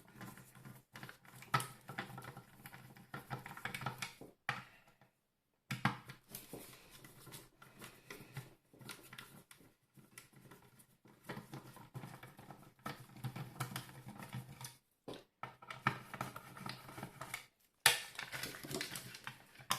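Screwdriver undoing small Torx screws on a steam iron's plastic cover: faint, irregular clicks, taps and scraping of the tool and plastic parts, with a few brief dead-silent gaps.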